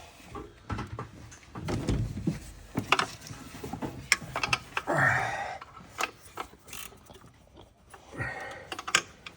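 Irregular clicks and knocks of hand tools on metal, sockets and wrenches working bolts loose in a truck's engine bay.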